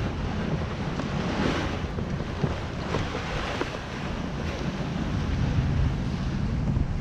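Wind buffeting the microphone, with a low rumble, over water washing and splashing in the shallows; the splashing swells a little around the middle.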